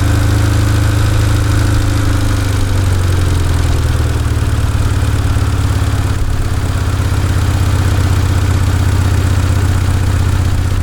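A 1991 Honda CRX Si's 1.6-litre four-cylinder engine idling roughly on its own, its revs sinking a little over the first few seconds and then holding steady. It is running on only two cylinders, which the owner puts down to two stuck fuel injectors.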